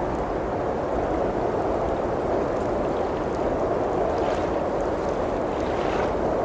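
Steady rushing of blizzard wind against a cabin, with a few faint crackles from a wood fire in the fireplace.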